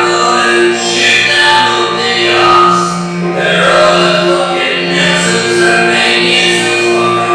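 A man singing a song with instrumental accompaniment over a steady low drone.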